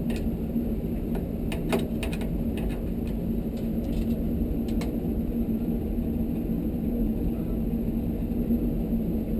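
Steady low machine hum with a held tone, and a few light clicks and taps in the first half as parts are handled.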